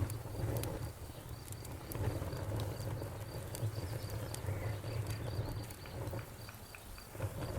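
Wood fire burning: a low, steady rumble of flames with scattered small crackles and pops.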